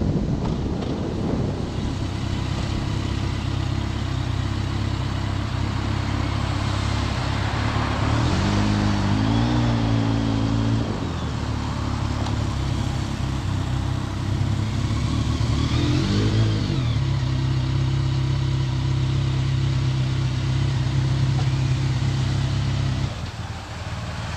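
BMW K1300S inline-four engine running at low revs as the bike rolls slowly to a stop. The pitch rises and falls briefly twice, about eight and sixteen seconds in, and the engine note falls away near the end.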